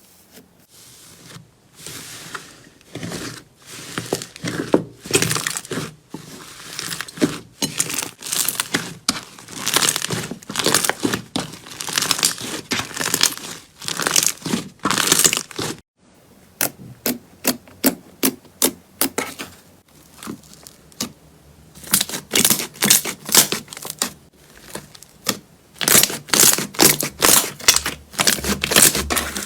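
Slime being squeezed and worked by hand, giving bursts of crackling, popping clicks about once a second. It breaks off sharply about halfway through, then comes back as a run of separate sharp pops and then denser crackling again.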